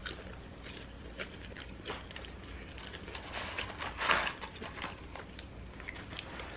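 Close-up eating sounds: curly fries being bitten and chewed, with small clicks and soft rustling of paper food containers, and a short louder rustle about four seconds in.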